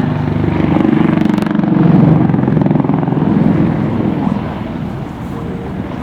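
Westland Lynx helicopter flying past: rapid rotor chop over the sound of its Rolls-Royce Gem turboshaft engines. It grows louder to a peak about two seconds in, then fades away over the last couple of seconds.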